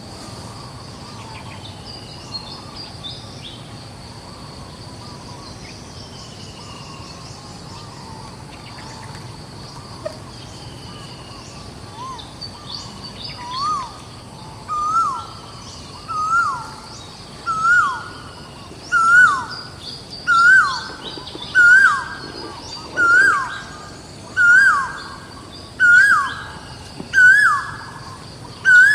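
A bird calling a whistled note that rises and then falls, repeated about a dozen times at roughly one every second and a third. It starts about halfway through and grows louder, over a steady background of other birds chirping.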